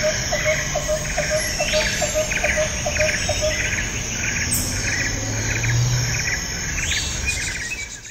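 Tropical nature ambience: insects chirping in rapid pulsed trains over a steady hiss, with a short low note repeated about three times a second until about three and a half seconds in. The sound cuts off abruptly at the end.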